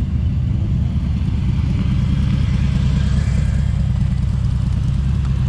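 A motor vehicle on the move at road speed: a steady, loud low rumble of engine and road or wind noise, with no sharp change in pitch.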